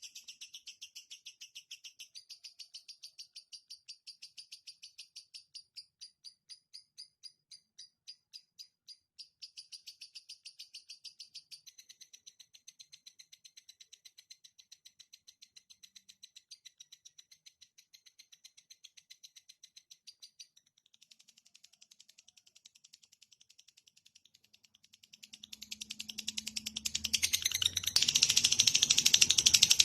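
Recorded songbird song for training caged birds: a fast, even trill of high chirps that fades about two-thirds of the way through. Near the end a much louder, harsher rattling call takes over.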